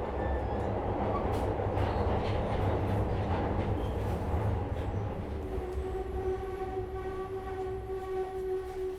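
Inside a Metro-Cammell 2nd generation Glasgow Subway car running through the tunnel: a loud, low rumble from the wheels and running gear. About halfway through, the rumble eases and a steady whine comes in.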